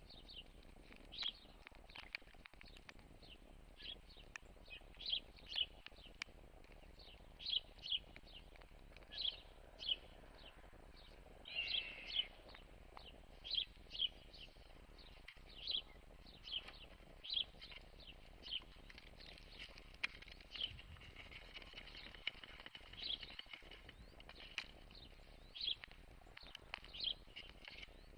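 A bird chirping: short, high calls repeated about once a second, with one longer call about twelve seconds in.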